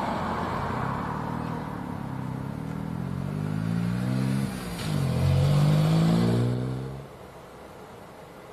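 Jet airliner's engines just after touchdown, a loud rushing jet noise with a sweeping, phasing pitch as the aircraft moves past, peaking a little past the middle and then cutting off suddenly.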